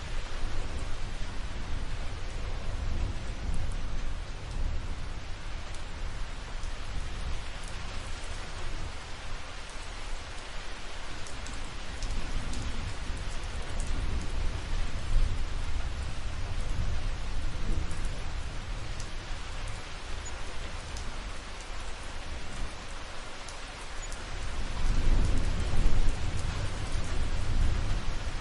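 Steady rain falling, with a low rolling thunder rumble underneath that swells louder about three-quarters of the way through.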